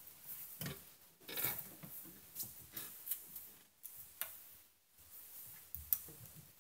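Faint, scattered clicks and rustles, with no piano or speech.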